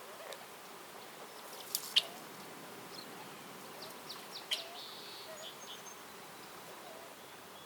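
Forest ambience: a faint steady buzz with a few short, high bird chirps around the middle, and sharp clicks about two seconds in and again near four and a half seconds.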